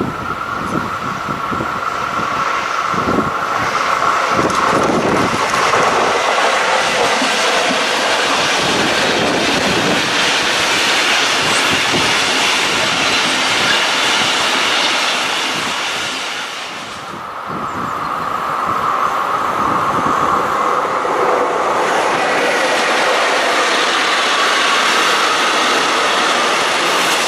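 A long intermodal freight train of wagons loaded with lorry trailers and containers rolling past close by: a steady loud rumble of wheels on rail with a clickety-clack over the joints. The noise swells over the first few seconds as the train arrives and dips briefly about two-thirds of the way through.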